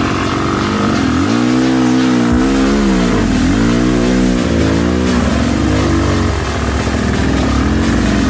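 Rieju MR300 dirt bike engine revving up and down as the throttle is opened and closed, its pitch rising and falling several times.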